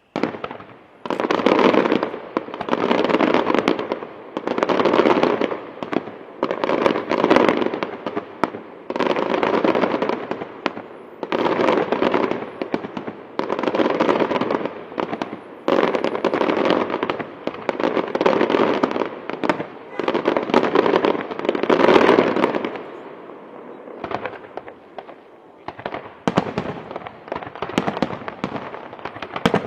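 Fireworks display: a barrage of bursts about every two seconds, each a second or so of dense crackling. Near the end it thins to scattered, quieter pops.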